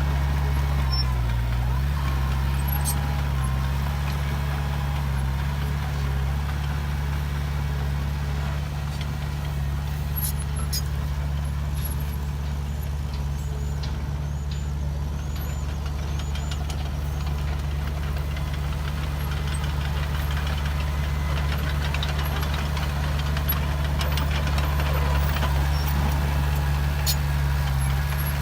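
Heavy earthmoving machine's diesel engine running steadily, a deep even drone with a few faint clicks over it.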